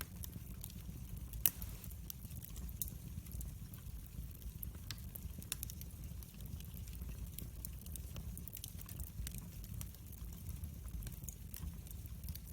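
Wood fire crackling in a fireplace: a steady low rumble of flames with frequent small pops and snaps, one louder pop about a second and a half in.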